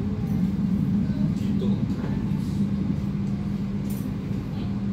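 Running noise of a moving passenger train heard from on board: a steady low rumble with a constant hum, and a few faint light clicks.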